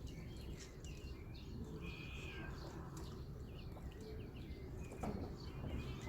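Many small birds chirping and calling in short, overlapping notes and trills, with one buzzy call about two seconds in, over a steady low rumble. A single sharp click sounds about five seconds in.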